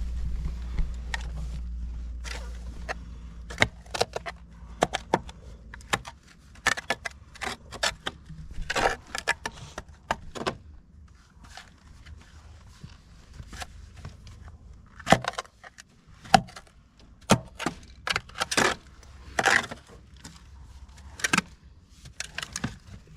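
Irregular sharp metallic clinks and scrapes of tools working at the rusted culvert pipe and the ground around it. A low machine rumble fades away over the first few seconds.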